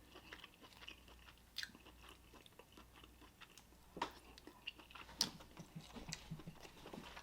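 Faint close-up chewing and eating of Dungeness crab meat, with scattered soft clicks and a few sharper ones about one and a half, four and five seconds in.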